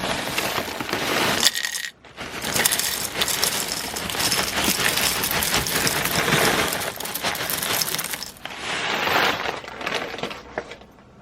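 Dry breakfast cereal poured into a bowl, a dense rattle of many small pieces hitting the bowl, with a short break about two seconds in and another near the end.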